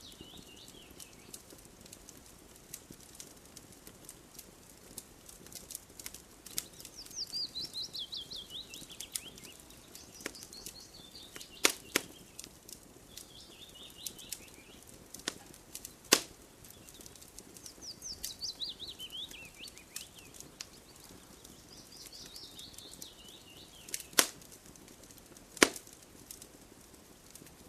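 Wood fire crackling with small ticks and occasional sharp pops, the loudest about twelve, sixteen and twenty-four seconds in. A bird repeatedly sings a quick trill that falls in pitch over about two seconds.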